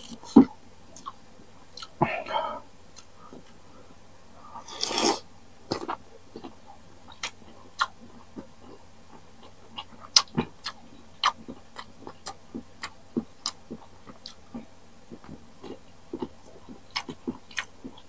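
Close-miked chewing of crisp unripe green mango: a run of sharp crunchy clicks, a couple each second, with two longer, noisier crunches about two and five seconds in.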